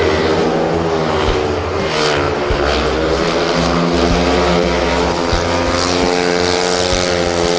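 Speedway motorcycle's 500 cc single-cylinder methanol engine running hard as the bike rides out onto the dirt track and slides through a turn, its pitch fairly steady.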